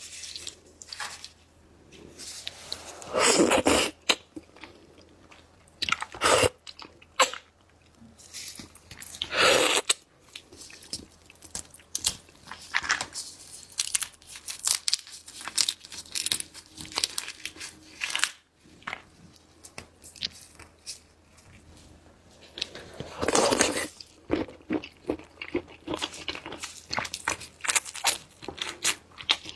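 Close-miked eating of red shrimp: irregular crunching and crackling with chewing, the loudest crunches about three, nine and twenty-three seconds in.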